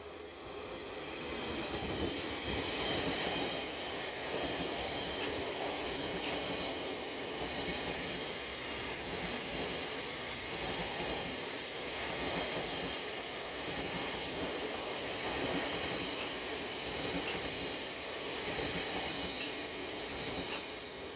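Thameslink Class 700 electric multiple unit running past along the platform, a steady rolling rumble of wheels on rail with high steady tones over it.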